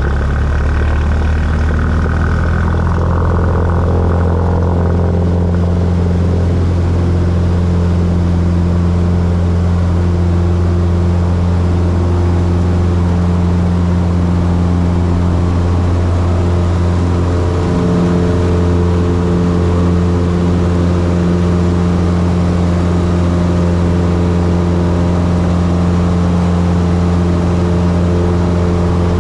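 A light airplane's piston engine and propeller drone steadily, with a brief waver in pitch a little past halfway.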